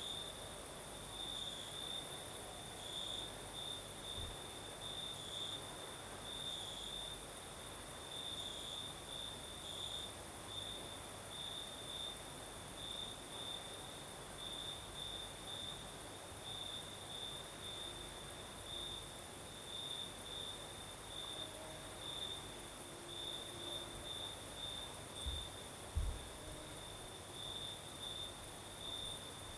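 Crickets singing at night: a cricket's quick repeated chirps over a steady high-pitched insect trill. A brief low thump comes near the end.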